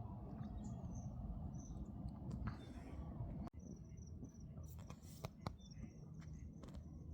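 Small wetland birds chirping, short high notes repeated many times, over a low rumble of wind on the microphone, with a few faint clicks.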